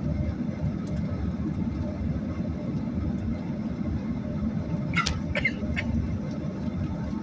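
Steady low rumble inside a Boeing 737's passenger cabin, the jet's engine and airframe noise. A few brief high squeaks cut through about five seconds in.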